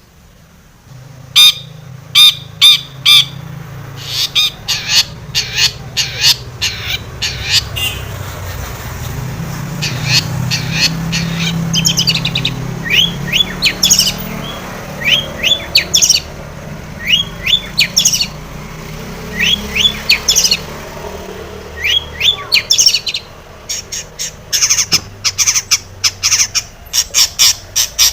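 Long-tailed shrike (cendet) singing: quick runs of harsh, scratchy notes and short upward chirps, delivered in bursts separated by brief pauses.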